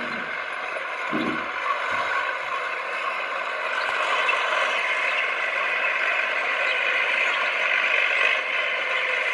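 Komatsu D20P small crawler bulldozer at work: a steady metallic clatter of its steel tracks and running gear, with a few low thumps in the first couple of seconds and growing a little louder after about four seconds.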